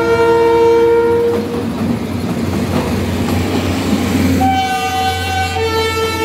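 Philippine National Railways diesel locomotive passing close by over a level crossing, its multi-tone horn sounding for about the first second and then stopping. The locomotive's engine rumbles and the coach wheels clatter over the rails as the train goes by. A train horn sounds again about four and a half seconds in, shifting to a different chord a second later.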